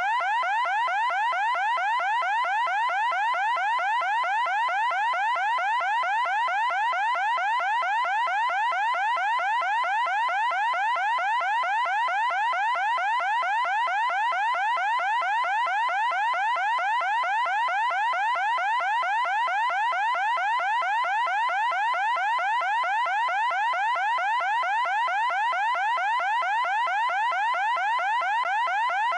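Loud electronic alarm siren sounding continuously: a high tone repeating as fast, evenly spaced rising sweeps, without any change.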